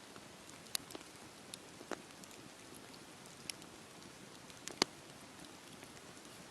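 Wood fire burning in a fireplace: a soft steady hiss with scattered sharp crackles and pops, the loudest about three-quarters of the way in.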